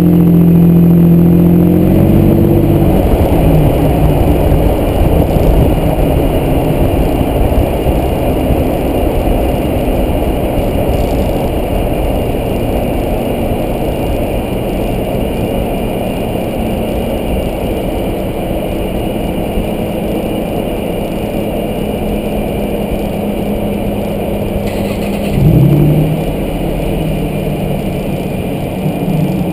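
2010 Toyota Tacoma pickup driving: engine and road noise, the engine's strong steady note easing off about two seconds in, with a faint steady high-pitched whine underneath. A brief louder swell with a dip in pitch comes near the end.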